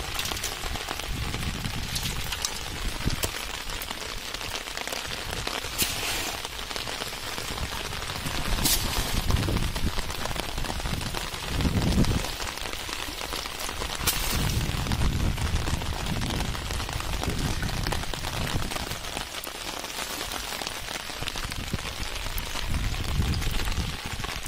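Rain falling on flooded paddy-field water, a steady hiss, with irregular low rumbles coming and going and a few sharp taps.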